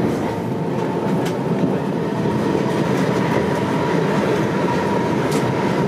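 Train running, heard from inside the passenger car: a steady rumble and rattle of the wheels on the rails under a faint steady whine, with a couple of sharp clicks.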